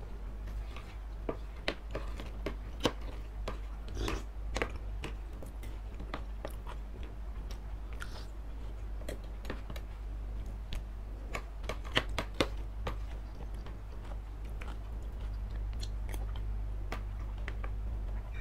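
Close-miked chewing of noodles and satay in sauce, with scattered sharp clicks of metal spoons scraping and tapping a ceramic baking dish. A steady low hum runs underneath.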